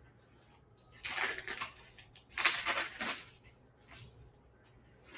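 Crinkling rustle of a sterile paper drape being unfolded and handled, in three short bursts, the second the loudest.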